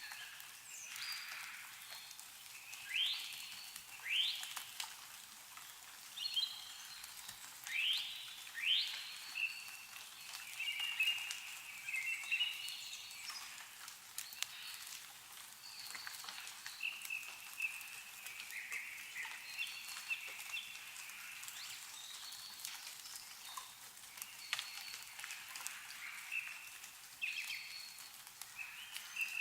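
Songbirds calling, with several quick rising chirps in the first ten seconds and then repeated warbling phrases, over faint ticks of meltwater dripping from snow-covered trees.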